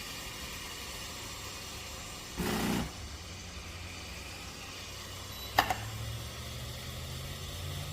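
Espresso machine running with a steady low background, a brief rush of noise a little over two seconds in, then a sharp click after which a low steady hum starts up.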